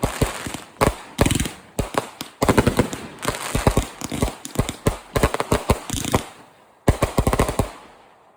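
Consumer 500 g firework cake firing rapid volleys of sharp reports and crackle, several shots a second in close clusters. A final volley comes about seven seconds in, then the firing dies away.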